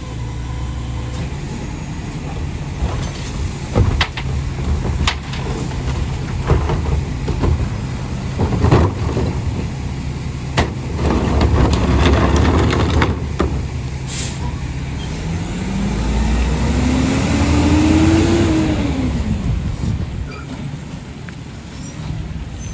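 A rear-loader garbage truck's diesel engine running steadily, with scattered knocks and thuds of trash being loaded into the hopper. Near the end the engine revs up and back down, as it does when the packer blade cycles.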